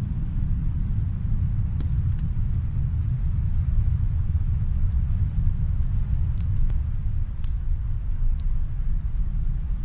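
Fireplace fire crackling, a dozen or so sharp little pops scattered through, over a steady low rumble.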